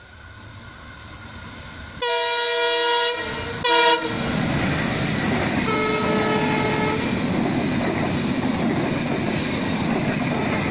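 Diesel locomotive of an intercity express train approaching at speed and sounding its horn: a loud blast of about a second, then a short second blast. Then the steady noise of the coaches passing close by.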